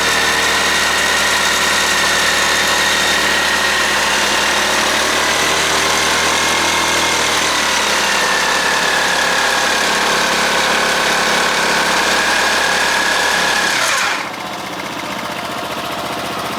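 Honda Forza (MF06) scooter running with a high-pitched whine from its CVT drive section, the abnormal noise that appears as the revs rise and that is put down to the drive pulley. The whine wavers slightly in pitch, then about fourteen seconds in the engine cuts off and the whine falls away.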